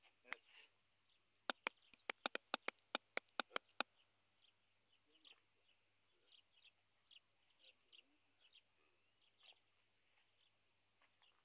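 Faint, scattered bird chirps, with a quick run of about a dozen sharp clicks, roughly five a second, starting about a second and a half in.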